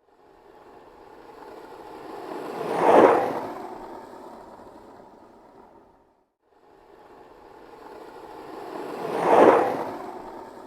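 Skateboard wheels rolling past twice, each pass swelling to its loudest as it goes by and then fading away, with a short silence between the two passes.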